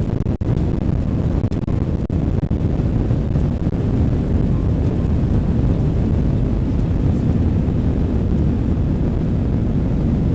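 Airbus A321 airliner's engines and airframe giving a steady low rumble, heard from inside the passenger cabin as the aircraft takes off.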